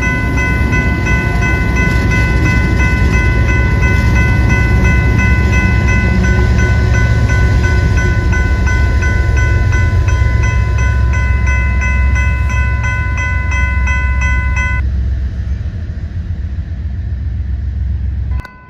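A train rumbling past at a railroad crossing while the crossing's warning bell rings rapidly and steadily. The bell stops about three-quarters of the way through; the train's rumble carries on and cuts off abruptly near the end.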